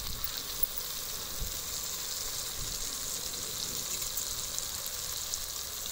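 Tomato-onion masala with spice powders and curd sizzling steadily in hot oil in a clay pot.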